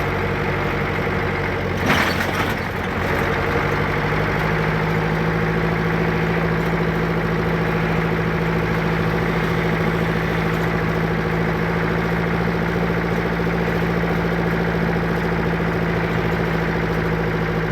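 An engine idling steadily at an even pitch, with a brief louder noise about two seconds in.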